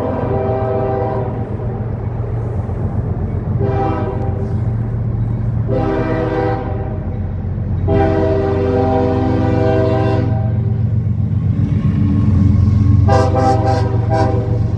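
Diesel freight locomotive's air horn sounding a horn salute: a run of separate chord blasts, the longest about two seconds, the last one starting near the end. Under them runs the steady low rumble of the passing locomotives.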